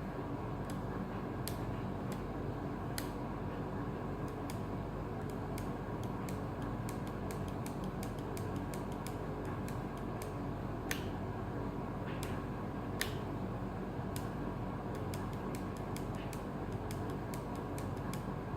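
Radio-controlled model Scania truck running: a steady mechanical hum with frequent sharp clicks and creaks from its working parts.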